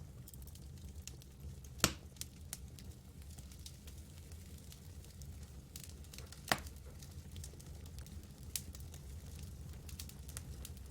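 Campfire crackling: a scatter of small ticks and snaps over a steady low rumble, with two sharper pops at about 2 and 6.5 seconds in.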